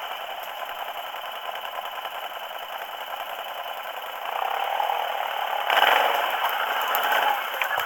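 Quad bike (ATV) engine running with the vehicle rattling as it rides over rough ground. It gets louder about four seconds in and again near six seconds as the rider speeds up.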